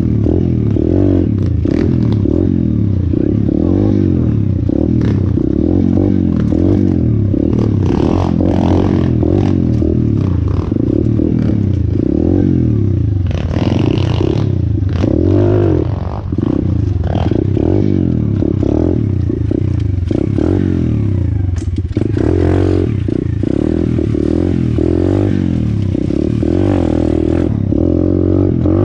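Orion AGB 37 125cc pit bike's single-cylinder four-stroke engine under way, its pitch rising and falling over and over as the throttle is opened and closed. Rattling and scraping noise runs alongside it.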